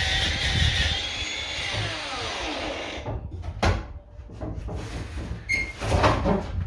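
Power tool fitted with a steel wire brush scouring stone with a loud, whining hiss. It spins down and stops about three seconds in, followed by scraping and a few knocks.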